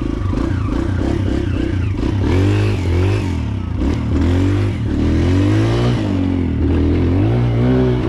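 Kawasaki KLX140L dirt bike's single-cylinder four-stroke engine running under way. Its pitch rises and falls repeatedly as the throttle opens and closes.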